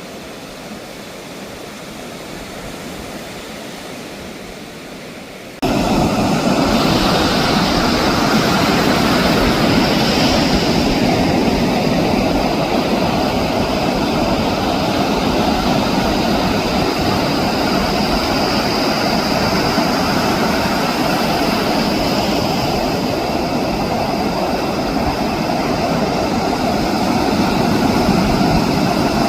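Steady roar of ocean surf, jumping abruptly louder about five and a half seconds in and staying loud and even after that.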